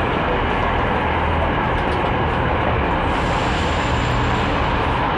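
Steady low rumble and hum of a train in a railway station, with a faint high whine briefly about three seconds in.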